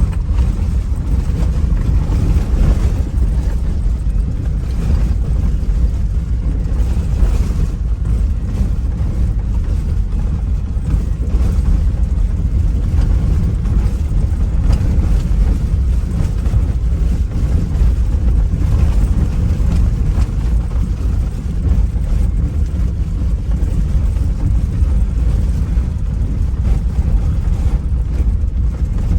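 A small motorboat's engine running steadily under way, a continuous low rumble with wind buffeting the microphone.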